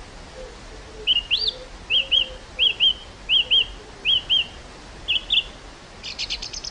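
A songbird singing a series of about six quick, high, upswept double notes, followed near the end by a fast buzzy rattle. A steady hush of wind in the field runs underneath.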